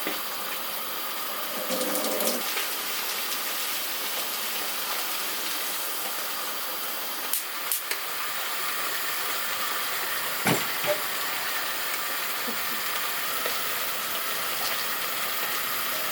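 Steady sizzling hiss of food frying in a pan, with a few light utensil clicks about halfway through.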